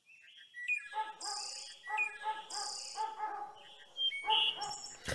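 Birds chirping and tweeting: short repeated pitched calls, with two longer high buzzy trills about a second and a half apart.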